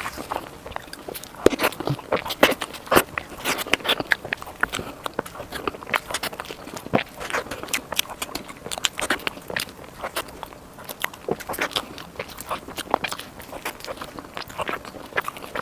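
Close-miked eating: a person bites and chews soft desserts, with a dense run of wet mouth clicks and smacks.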